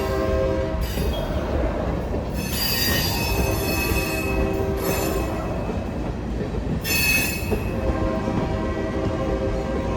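Freight train led by a GP9 diesel locomotive rolling by over a steady low rumble, its wheels squealing against the rails in high-pitched bursts about two and a half, five and seven seconds in.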